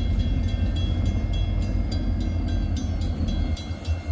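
Freight locomotive rumbling low and steady as it approaches, with a rapid, even metallic ringing, like a bell, over it. The rumble dips briefly near the end.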